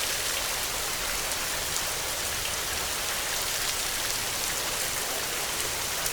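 Heavy rain falling steadily: an even hiss with the patter of individual drops.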